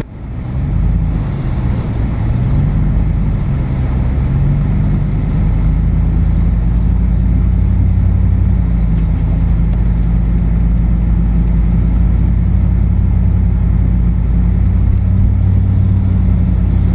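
Car engine gathering speed, its pitch wavering and then rising over the first few seconds before holding steady, over a low, even rumble of road noise.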